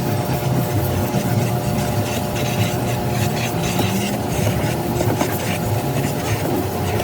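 A motor running steadily, giving a constant drone with a hiss over it.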